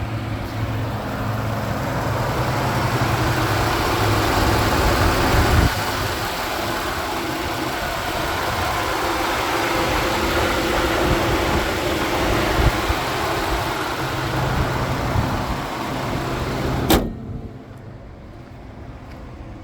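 Ford F-150 pickup's engine running steadily, then stopping abruptly with a sharp click near the end, leaving a much quieter background.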